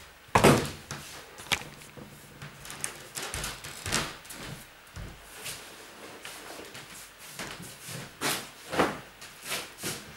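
Irregular knocks, bumps and scrapes of objects being handled in a small room. The loudest knock comes about half a second in, with another cluster near the end.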